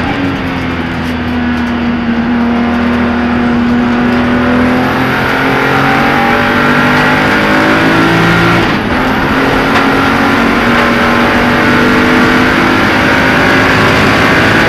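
BMW race car's engine running hard under load, heard from inside the caged cabin. Its pitch climbs slowly and dips briefly about nine seconds in, then holds steady.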